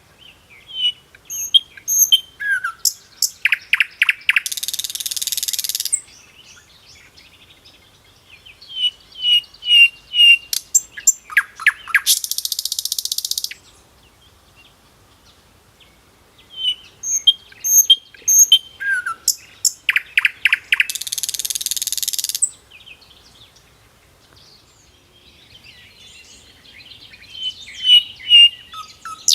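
A songbird singing the same song over and over, about every eight seconds. Each song is a quick run of high chirps that ends in a long buzzy trill. The fourth song starts near the end.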